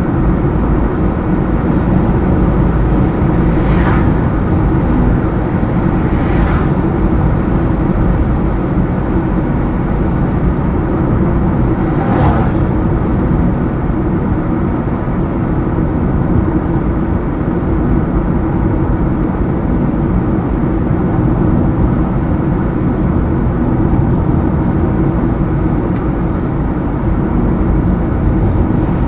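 Car driving on a highway: steady low road and engine noise, with three brief swishes about 4, 6 and 12 seconds in.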